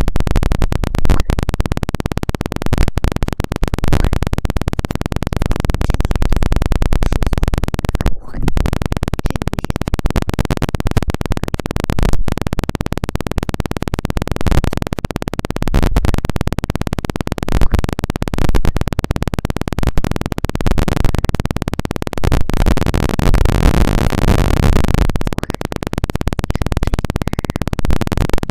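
Dense crackling and scratching right against a sensitive ASMR microphone, with a brief break about eight seconds in.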